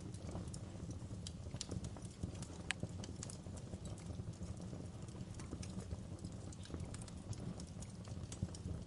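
Wood fire burning in a fireplace: irregular sharp crackles and pops over a steady low rumble of flames, with one louder snap about a third of the way in.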